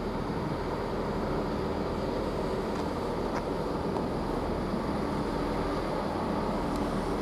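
Class 165 diesel multiple unit idling at the platform: a steady engine rumble with a faint hum running through it.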